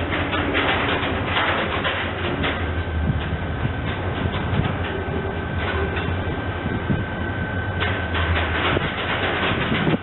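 A train running on rails: a steady low rumble with irregular clattering of wheels over rail joints and a thin, steady high whine.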